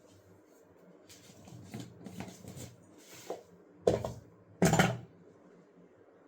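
Kitchen handling noises: soft scraping and rustling, then two short loud knocks of a utensil or container.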